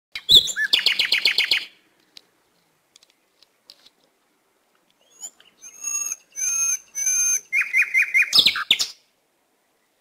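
Bird calls: a quick run of about eight notes at the start, a pause, then a series of looping whistled calls, another quick run of notes, and a short loud harsh burst near the end.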